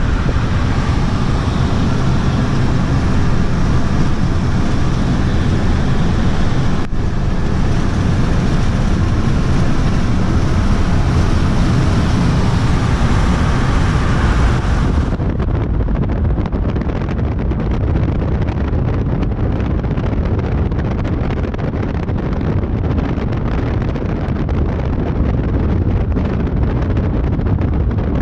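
An engine running steadily while moving, with wind buffeting the microphone.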